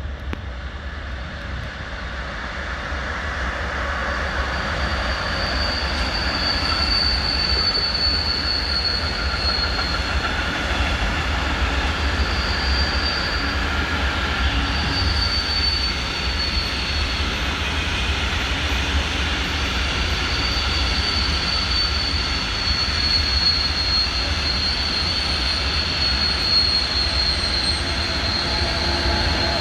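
Train running through a station, getting louder over the first few seconds and then holding steady, with a high-pitched wheel squeal that comes and goes.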